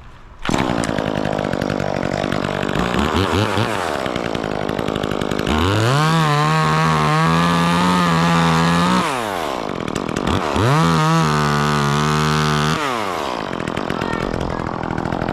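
Two-stroke chainsaw idling, then revved to full throttle twice for about three seconds each while cutting into an oak limb, dropping back to idle between the cuts and at the end.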